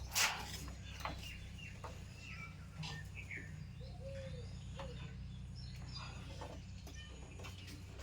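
Birds chirping: scattered short calls and small arched whistles, with a few sharp clicks, over a steady low hum.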